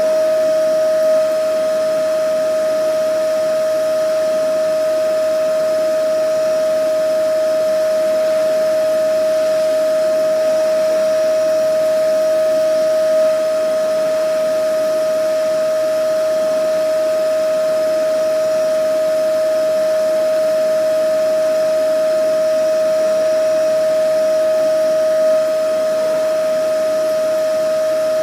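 Vacuum cleaner running continuously: a steady high whine from the motor over an even rushing hiss of air, with a slight swell in level about every twelve seconds.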